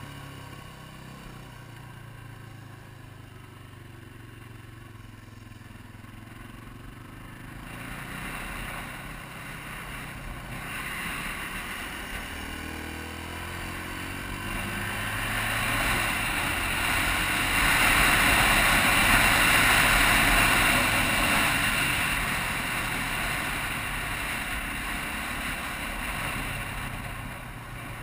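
Yamaha TT-R250's single-cylinder four-stroke engine running low at first, then revving up from about eight seconds in. It is loudest a little past the middle, then eases off near the end.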